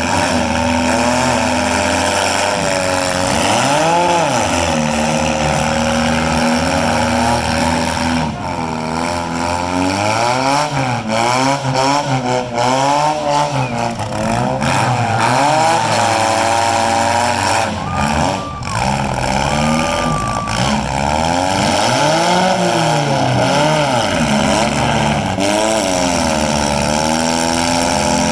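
Several four-cylinder demolition derby car engines revving up and down over one another, with clusters of sharp knocks about a third of the way in and again past the middle.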